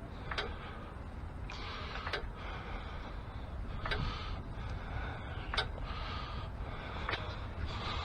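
Car jack being pumped by hand to lift the car, each stroke giving a sharp click about every one and a half to two seconds, with a rasping sound between the clicks.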